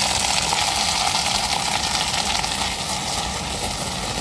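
Chili peppers and fava beans frying in hot oil, a steady sizzle, with heavy rain falling around the shelter.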